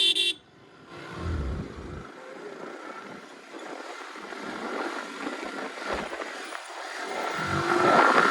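Riding on a motorcycle: wind and road noise with passing traffic. A short, loud pitched beep cuts off right at the start, and the noise swells near the end as something louder goes by.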